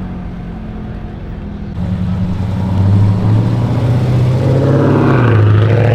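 A car engine running close by, its low steady hum growing louder about two seconds in.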